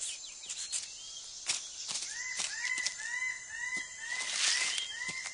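A bird calling a run of about eight short, arched notes, about two and a half a second, starting about two seconds in, over rainforest ambience with scattered small clicks and rustles.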